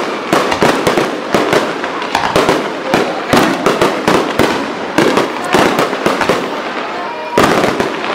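Fireworks display: aerial shells bursting in a dense, unbroken series of bangs and crackles, several a second, with a thick cluster of bursts near the end.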